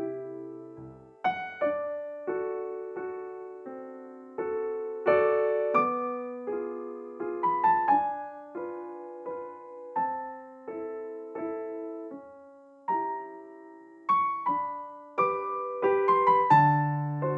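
Soft background piano music: a gentle melody of struck notes over held chords.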